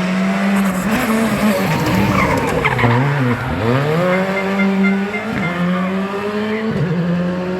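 Rally car engine at high revs while the car slides through a corner, with tyres squealing. The revs dip about three seconds in, then climb again, with two short drops near the end as it shifts up.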